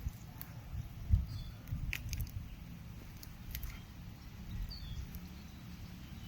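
Faint short bird chirps, a couple of times, over a steady low rumble with irregular low thumps; the loudest thump comes about a second in.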